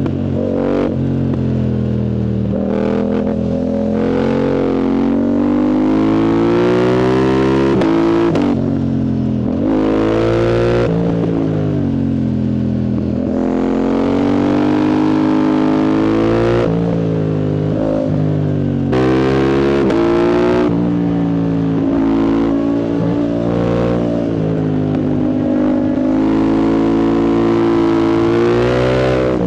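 Yamaha MT-07's CP2 parallel-twin engine running loud through an aftermarket full exhaust with the dB killer removed. It is ridden hard, its pitch climbing through the revs and dropping off again several times as it accelerates and shifts.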